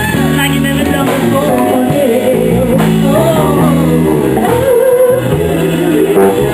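Live soul and R&B band playing, with guitar and a singing voice over sustained low bass notes.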